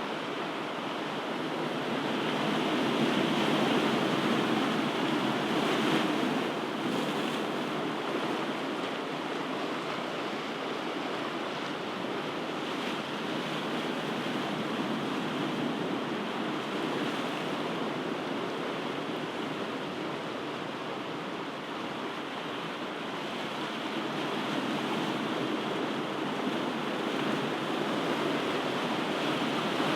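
Ocean surf: waves washing on a shore as a steady rushing noise that swells slowly about three seconds in and again near the end.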